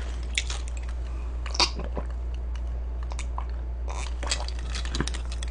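A person chewing food close to the microphone, with scattered soft crunches and mouth clicks.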